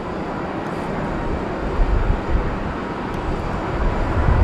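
Jet engines of an Airbus A330 on approach to land: a steady rush of engine noise with a low rumble, growing slightly louder near the end.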